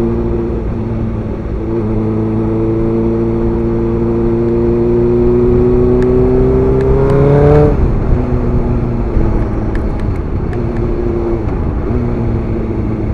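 Suzuki GSX-R sportbike engine under way, its note rising steadily for about seven seconds. The pitch then drops sharply as the revs fall, and the engine runs on at a lower, steady note.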